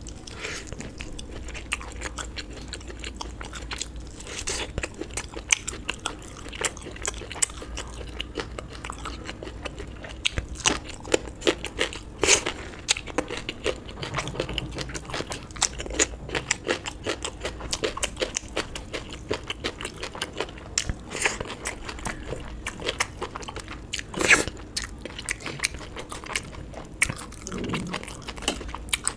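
A person chewing and crunching food close to the microphone, with a steady run of wet smacks and short crunches; two louder crunches about 12 and 24 seconds in.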